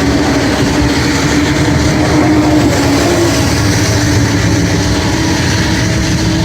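Highway traffic passing close by in the rain: a steady rush of tyre and engine noise from cars and trucks, with a droning tone that fades out about three seconds in.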